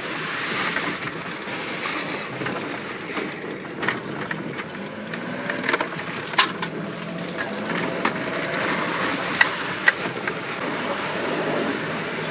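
Truck driving over a rough road: a steady rumble of road noise with rattles and several sharp knocks, the loudest about six seconds in and twice more near ten seconds.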